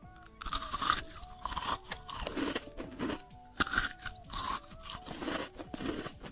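Loud, crisp crunching as food is bitten and chewed close to the microphone, a crunch every half second to a second, over faint background music.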